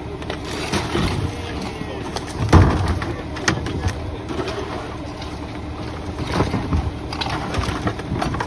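Diesel engine of a rear-loading garbage truck running steadily, with repeated thuds and clatter of bulky debris being thrown and loaded into it, the loudest bang about two and a half seconds in.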